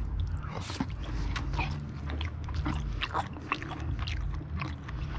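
Close-up chewing and wet mouth clicks of a person eating a fajita, irregular and continuous.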